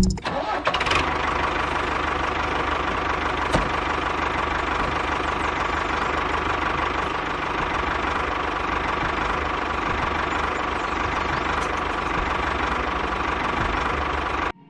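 An engine running steadily at an even speed, with a fast knocking rhythm. It cuts in and out abruptly.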